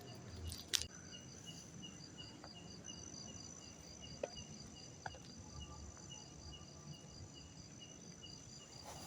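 Night insects, crickets, chirping in a regular pulse about twice a second over a steady high trill. A single sharp click just under a second in is the loudest sound, with a fainter click about four seconds in.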